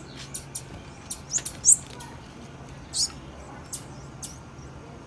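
Female blue-black grassquit (tiziu) giving short, high-pitched chip calls, about a dozen scattered irregularly, the loudest a little under two seconds in.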